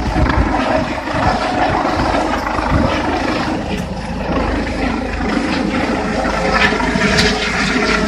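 Air ambulance helicopter running loud and steady, mixed with gusty wind buffeting the microphone.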